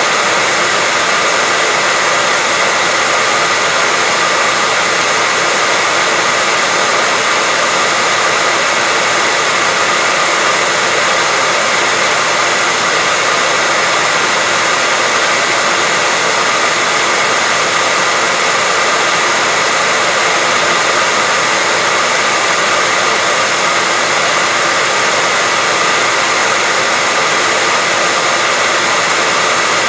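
Electric hair dryer running steadily: a constant, even whoosh of air with a faint steady whine from the fan motor, unchanging throughout, played as white noise to lull a baby to sleep.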